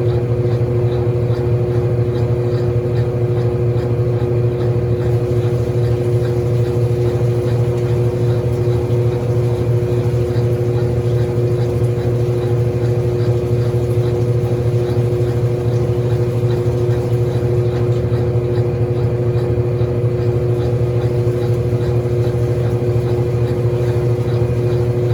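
Mondial Baby BLK20 washing machine running with a steady motor hum that does not change, late in its wash cycle.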